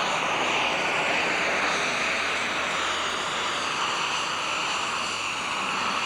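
Turbocharged diesel engine of a super stock pulling tractor running hard and steady, a loud dense engine sound with a high turbo whine over it.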